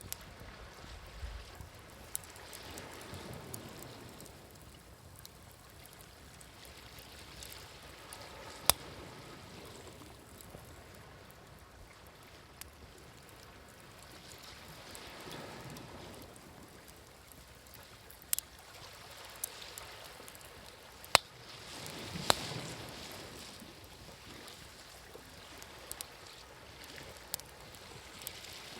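Wood fire crackling with scattered sharp pops, over gentle waves washing in and receding in slow swells.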